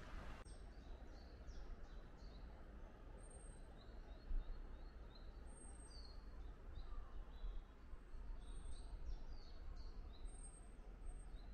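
Faint songbirds singing: a mix of short high chirps and a thin, very high whistle repeated every second or two, over a low steady background rumble.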